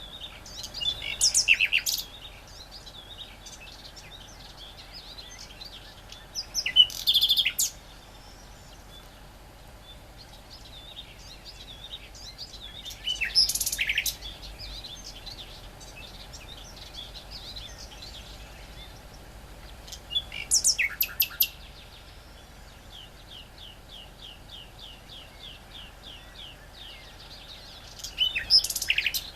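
Great reed warbler singing in loud, short bursts, five in all, each about a second long and spaced about seven seconds apart. Fainter chirping continues between the bursts, including a quick run of ticking notes about two-thirds of the way through.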